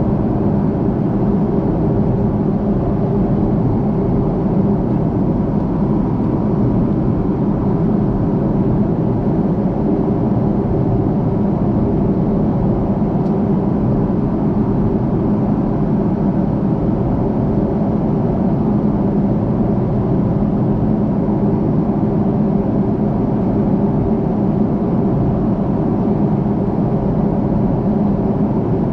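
Steady cabin drone of an Airbus A330-300 in flight, the mix of its Rolls-Royce Trent 700 engines and the airflow over the fuselage, with a low hum and no change in level.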